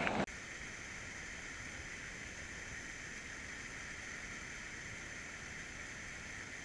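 Steady, faint rush of falling water from a river waterfall, even and unbroken. A short louder sound cuts off sharply just after the start.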